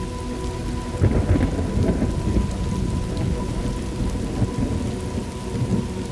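Thunderstorm: steady rain with low rolling thunder, and a louder clap of thunder breaking in about a second in and rumbling on.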